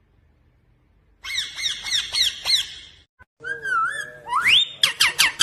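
Pet parrot chirping. About a second in comes a quick run of falling chirps, then after a short break a wavering call, a rising whistle and several fast falling notes near the end.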